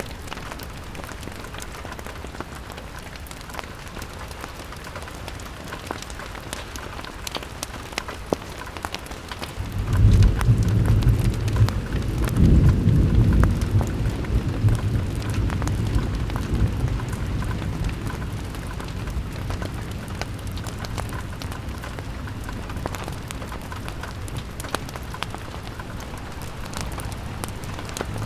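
Steady rain pattering on a window, with fine drop ticks throughout. About a third of the way in a roll of thunder breaks in suddenly, rumbling low and loud for a few seconds before slowly fading back under the rain.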